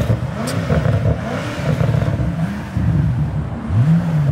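Car engine revved again and again in quick blips, each a short rise and fall in pitch.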